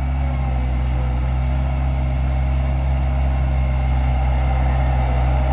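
Bobcat 853H skid steer's diesel engine running steadily, a constant low engine note with no change in speed.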